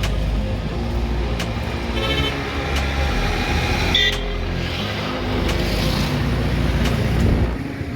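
A motor vehicle running, a steady low rumble, with short higher-pitched sounds about two seconds and four seconds in.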